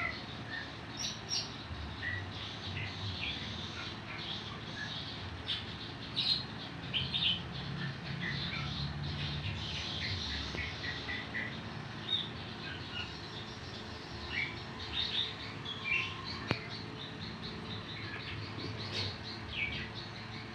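Many short, high chirps from small birds, over a low steady hum.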